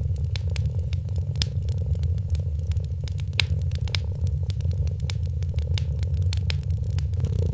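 A cat purring steadily under a crackling wood fire, with irregular sharp pops and snaps over the low purr.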